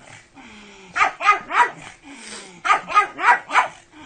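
A dog barking: three quick barks about a second in, then four more in a quick run.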